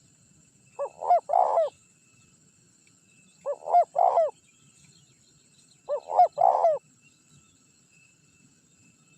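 Spotted dove (tekukur) cooing: three short phrases of a few low coos each, about two and a half seconds apart.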